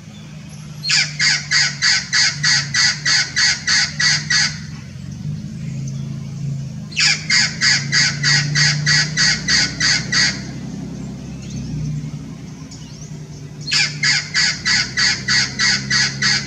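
Amazon parrot calling in three bouts of rapid repeated notes, about four a second, each bout lasting around three seconds.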